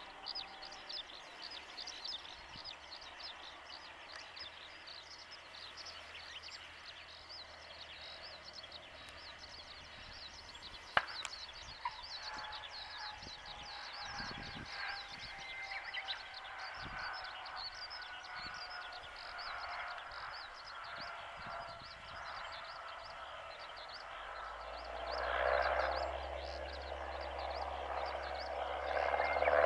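Light piston aircraft, a Cessna 172S Skyhawk with its four-cylinder Lycoming engine and propeller, heard at a distance as a drone slowly falling in pitch, then growing steadily louder with a low hum near the end as it comes closer. Birds chirp continuously throughout.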